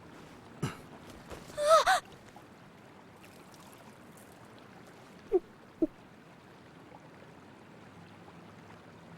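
A short, high-pitched gasp-like vocal cry with a wavering pitch about two seconds in, then two brief falling vocal sounds in quick succession about five and a half seconds in, over a faint steady background.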